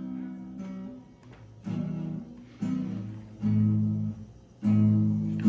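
A stringed instrument is strummed in single chords, about one a second and unevenly spaced, each chord ringing briefly before the next.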